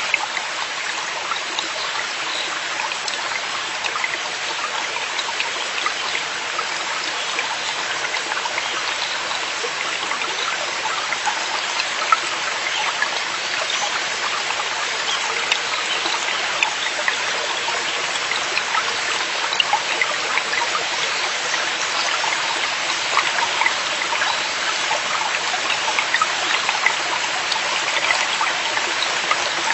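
Mountain stream in a forest valley running steadily over rocks, a constant rush of water with many small splashes and drips throughout.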